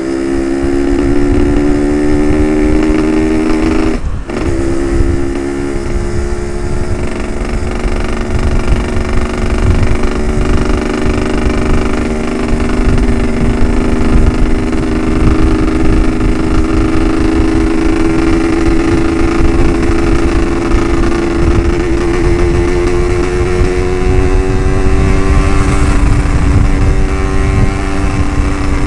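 Yamaha RX-King 135cc single-cylinder two-stroke engine with a ported cylinder, running hard at speed. The engine sound breaks off briefly about four seconds in, like a gear change, then pulls on with its pitch climbing slowly. Wind on the microphone adds a low rush underneath.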